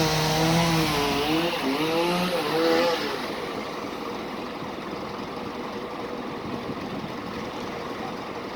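Scania 113H 320 truck's diesel engine revved, its pitch dipping and rising for about three seconds, then dropping back to a steady idle.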